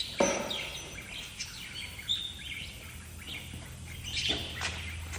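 Birds chirping and calling in short high notes, with one held whistle. A sharp, loud sound comes just after the start, and a low steady hum sets in about three seconds in.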